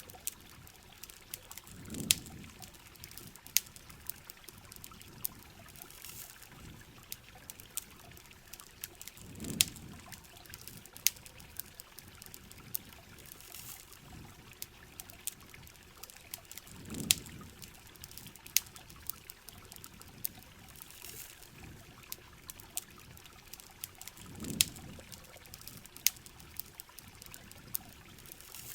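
Steady hiss of heavy rain and running river water, with the sharp irregular pops and crackles of a campfire. A soft low whoosh rises and fades four times, about every seven and a half seconds.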